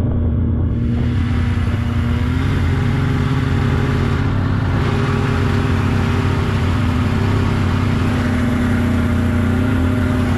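Polaris snowmobile engine running steadily, its pitch stepping up a little about two and a half seconds in.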